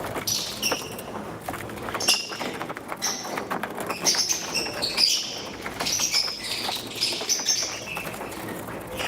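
Pet lovebirds chirping: a run of short, shrill calls one after another, with scattered light clicks among them.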